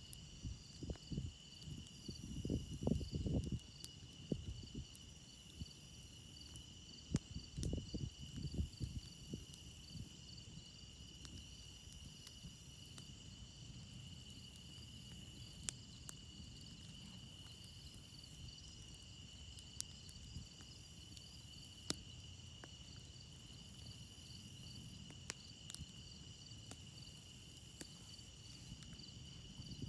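Crickets chirping in a steady chorus, with scattered sharp pops from a crackling campfire. Low rumbling noise swells twice in the first nine seconds or so.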